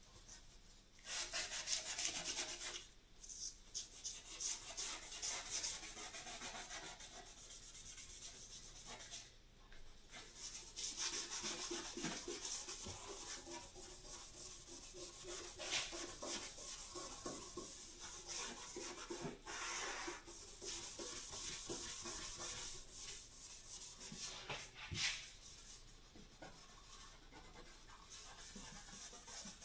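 Sandpaper rubbing back and forth over a repaired dent in a car body panel, in quick repeated strokes. The sanding stops briefly a few times.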